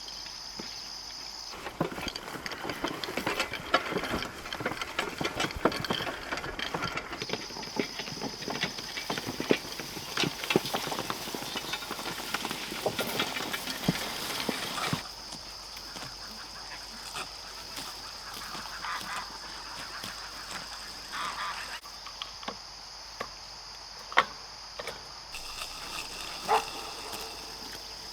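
Farm ducks and geese calling now and then, with a busy stretch of rustling and clicking over the first half, over a steady high trill.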